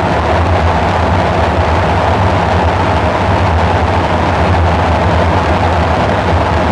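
Dark ambient synthesizer drone: a steady deep rumble under a hiss, with a brighter hum in the middle, holding unchanged throughout.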